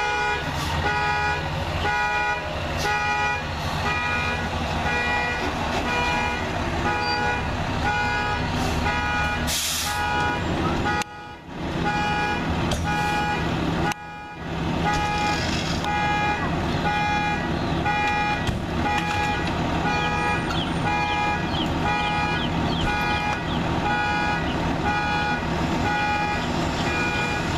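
An electronic vehicle warning beeper sounding over and over, a bit more than once a second, over a running engine.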